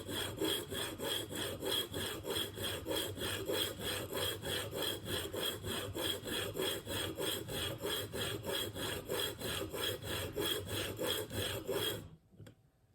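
Steel broadhead bevel rubbed back and forth on a coarse 220-grit diamond sharpening plate in a KME jig, in quick even strokes of about four a second. This is the coarse grinding stage that removes metal to set the bevel. The rasping stops suddenly near the end.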